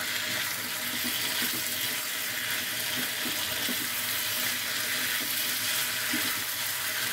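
Potatoes and tomatoes in spice masala sizzling in oil in a pan over a full gas flame while being stirred with a spatula: a steady hiss.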